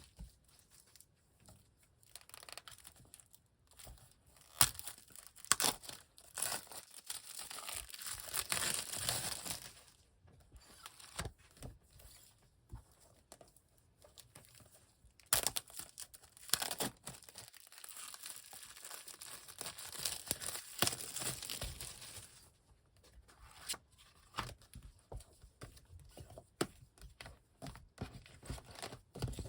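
Packaging being torn and crinkled by hand, in irregular crackling bursts with short pauses between, as the wrapping comes off manga books.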